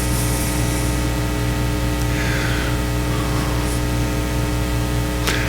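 Steady electrical mains hum with a buzzy stack of overtones under an even static hiss.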